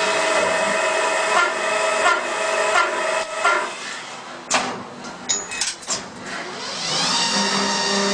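CNC polygon lathe running with a steady whine and a sharp click about every 0.7 seconds. About four seconds in the whine drops away and a few sharp clanks follow. Near the end a rising whine brings the machine back up to its steady running sound.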